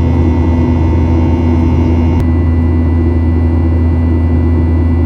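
Steady low drone inside the main cabin of a Boeing 737-800 in flight: its CFM56 jet engines and the airflow around the fuselage, with a faint steady whine riding on top.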